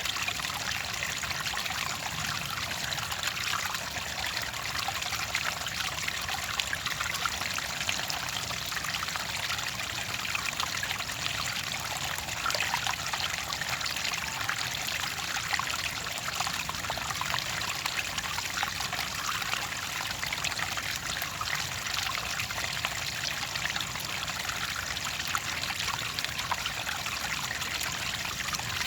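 Clear water trickling and splashing steadily, a small stream or flow pouring over stones, with a fine, bright texture and no change in level.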